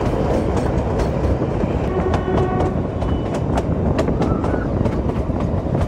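Narrow-gauge Kalka–Shimla toy train coaches running steadily along the track, a continuous rumble with wheels clicking over the rail joints. A brief pitched tone sounds about two seconds in.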